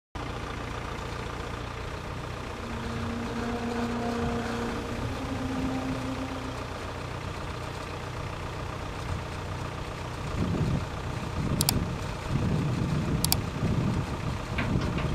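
1968 Case backhoe's engine idling steadily. From about ten seconds in the sound grows louder and uneven, with two sharp clicks.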